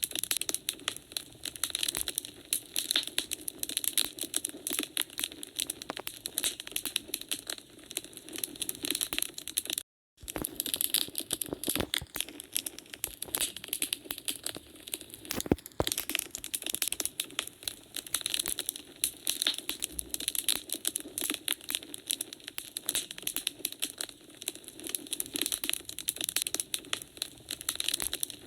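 Wood fire crackling in a fireplace: a dense, irregular stream of small snaps and pops, with an occasional louder crack. The sound cuts out completely for a split second about ten seconds in.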